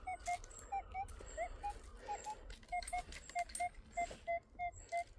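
A metal detector giving short electronic beeps over a target. The beeps are uneven and shift in pitch at first, then settle into an even run of about three or four a second, with scattered scraping and clicking of digging or handling among them.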